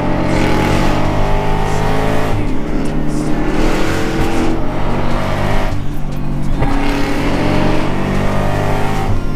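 Engine accelerating hard three times in a row, its pitch climbing through each long pull and dropping briefly between them.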